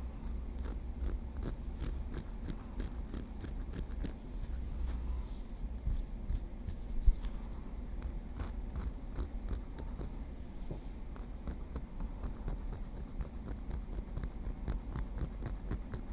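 Light tapping with a small wooden stick: quick, irregular, crisp clicks in clusters, thinner in the middle stretch, with one sharper tap about seven seconds in.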